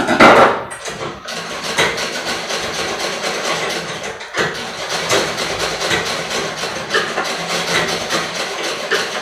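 Foot-pedal treadle sewing machine stitching, a fast, steady clatter from its needle mechanism. It starts abruptly and breaks off for a moment about four seconds in.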